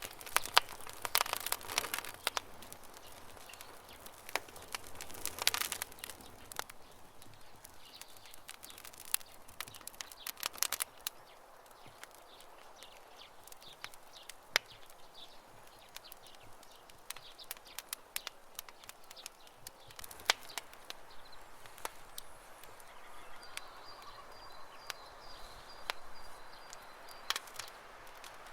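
Campfire crackling: irregular sharp pops and snaps over a soft steady hiss, in quick clusters in the first few seconds and again around five and ten seconds, then sparser. A faint, thin, high bird note sounds in broken bits a little before the end.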